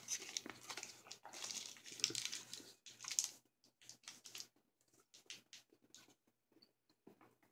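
Plastic candy wrapper crinkling as a piece of peppermint cream taffy is unwrapped, for about the first three seconds. After that come soft, scattered clicks of the taffy being chewed.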